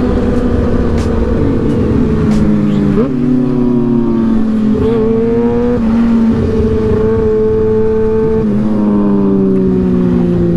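Engine of a moving vehicle running under way over steady wind and road noise. Its note sags gradually and steps abruptly up or down a few times, as with throttle and gear changes.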